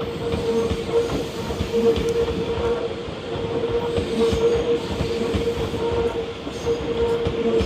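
Tokyu 2020-series railcars rolling past a level crossing, their wheels knocking irregularly over the rail joints. The crossing's warning bell keeps ringing steadily over it as one pulsing tone.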